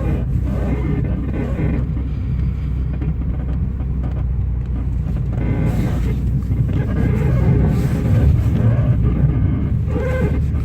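8th-generation Mitsubishi Galant/Legnum with a steady low vehicle rumble, and its suspension control arm creaking. This is the sound of a dying control arm, a sign the arm should be replaced right away.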